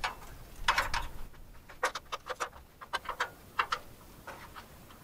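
Light, sharp taps on a wooden roof truss to nudge it sideways and centre it on the wall: about a dozen irregular knocks, some in quick pairs.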